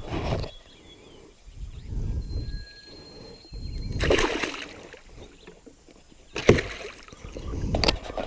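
Water sloshing and splashing around a canoe in irregular surges, with a sharp knock about two-thirds of the way through.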